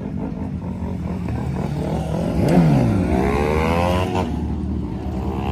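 A car engine being revved: a quick blip about two and a half seconds in, then a longer climb in pitch that drops back just after four seconds, over a steady idle.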